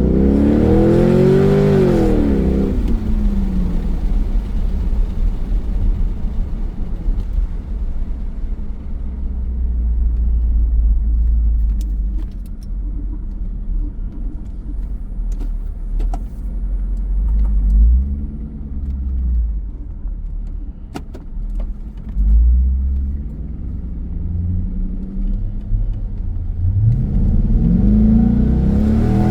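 2002 C5 Corvette's 5.7-litre V8 with a custom axle-back exhaust and Magnaflow mufflers, heard from inside the cabin while driving. The engine revs up hard at the start, briefly again about two-thirds through, and once more near the end, with a steady low rumble between.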